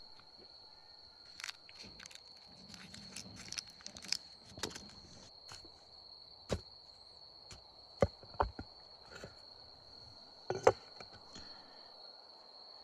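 A steady high-pitched tone, with scattered sharp clicks and knocks over it; the loudest knocks fall about eight and ten and a half seconds in.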